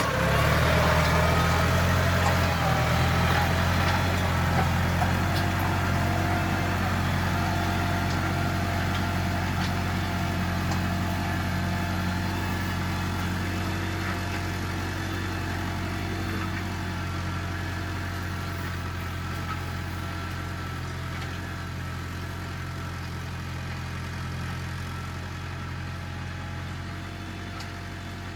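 Farm tractor engine running steadily, growing gradually fainter.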